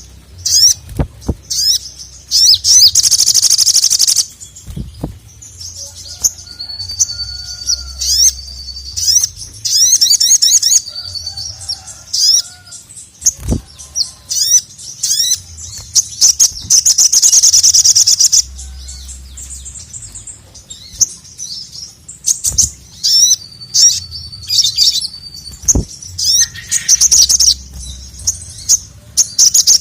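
Male ruby-cheeked sunbird (sogok ontong) singing hard: rapid, high-pitched chirps and trills, with two long, dense trills, one near the start and one in the middle. Sharp clicks come in now and then.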